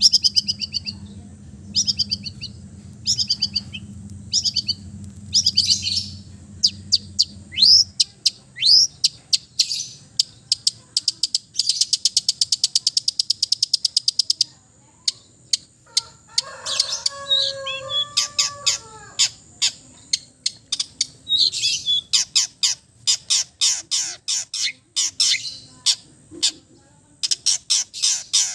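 Long-tailed shrike (cendet) singing a loud, varied song packed with mimicked calls of other birds: quick down-sweeping chirps, a fast buzzy trill about halfway through, a run of lower notes a few seconds later, and a rapid string of sweeping notes near the end. A low hum sits under the song for the first eight seconds or so, then stops.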